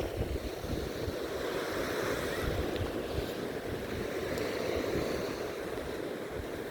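Sea waves breaking and washing up the shore in a steady wash of surf, with wind rumbling on the microphone.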